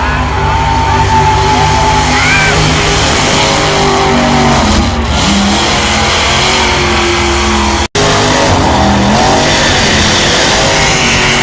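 Truck engine held at high revs through a burnout, with tyres squealing in wavering high tones, over music. The sound cuts out for an instant about eight seconds in.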